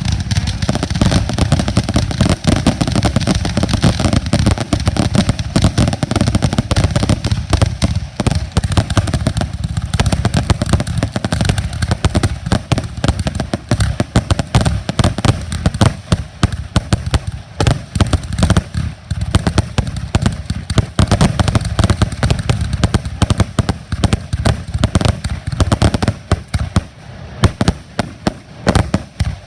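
Consumer firework cake firing a rapid, continuous barrage of bangs and crackles, many shots a second with no break, thinning somewhat near the end.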